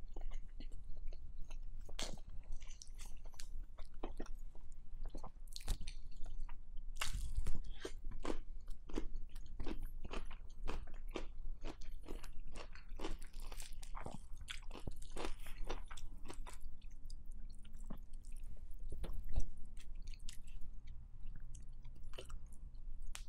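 Close-miked chewing of a mouthful of rice and grilled pork, with wet mouth clicks and smacks, picked up by a clip-on mic on the chest. Two louder knocks stand out, about seven seconds in and again near nineteen seconds.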